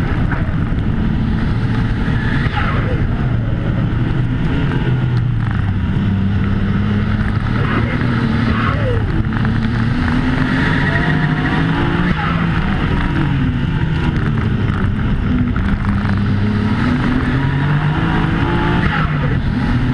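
In-cabin sound of a 1995 Nissan Skyline GT-R V-Spec's twin-turbo straight-six driven hard on a sealed stage, its revs climbing and dropping again and again through gear changes and braking, over steady road noise.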